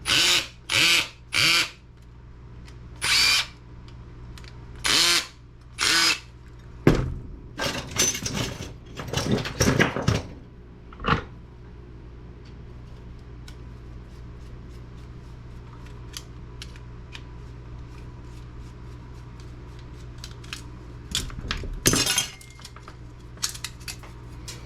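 Cordless drill-driver run in short half-second bursts, backing out screws from a computer's card-reader board: several bursts in the first six seconds and another near the end. Between the bursts come rattling and small clicks of the metal and plastic parts being handled.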